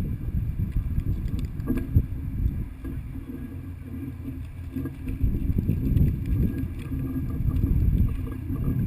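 Rumbling wind and handling noise on a body-worn camera's microphone, with a couple of sharp knocks about two seconds in.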